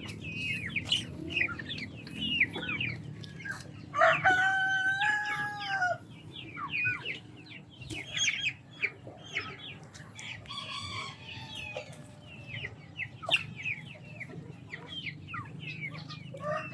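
Chickens clucking and chirping, with a rooster crowing once about four seconds in.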